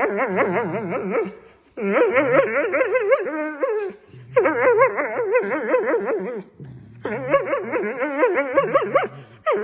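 A dog howling in a quickly wavering, warbling voice, in four long bouts with short breaks between them.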